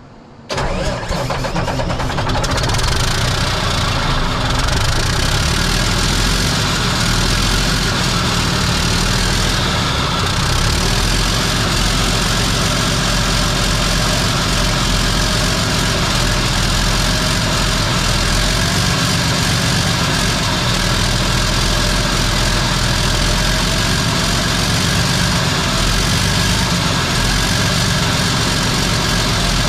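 Old Mack R model truck's diesel engine catching about half a second in and running loud and steady on ether spray. It will only run on ether, not on its own fuel, which the owner puts down to plugged fuel filters or a stuck injection pump.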